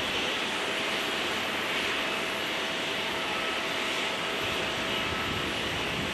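Steady jet aircraft noise on an airfield: an even rushing hiss with a faint high whine held on one pitch throughout.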